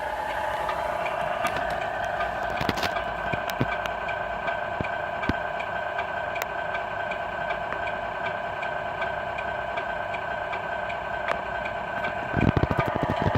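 RC Scania R470 model truck running with a steady whine from its drive, and scattered clicks. A burst of rapid clattering comes near the end.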